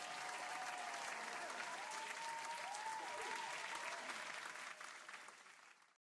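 Crowd applause with a few cheers, cutting in abruptly and fading out near the end.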